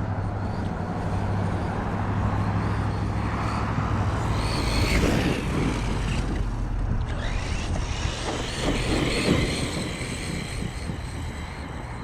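Redcat Racing Shredder RC monster truck's electric motor whining as it speeds up and slows down, under a steady low hum and rumble.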